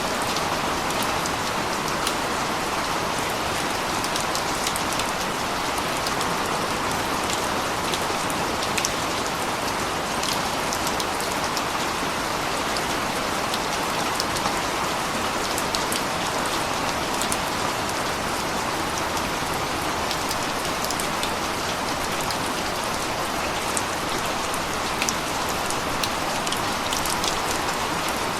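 Steady rain falling and pattering on a surface, an even hiss with scattered sharper drop ticks.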